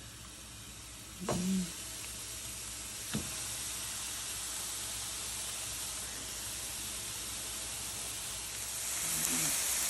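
Thick beef burger patty sizzling in a hot pan: the sizzle starts abruptly about a second in, as the patty goes in, and runs steadily, swelling a little near the end, with one light click partway through.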